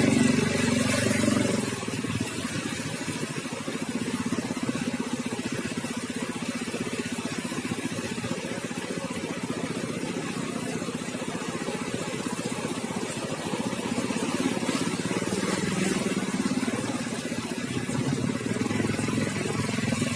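An engine running steadily at low revs, louder for the first couple of seconds and again toward the end.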